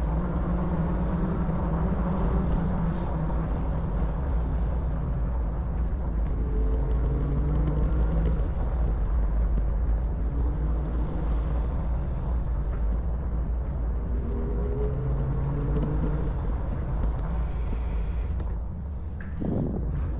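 Steady low rumble of an e-bike riding slowly through a concrete tunnel. A faint humming tone comes in twice, each time for a couple of seconds.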